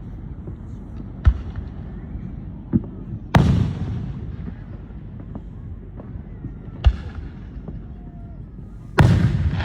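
Fireworks exploding: five bangs, the two biggest about three and a half seconds in and near the end, each rumbling away over a second or more, with smaller sharp cracks between them.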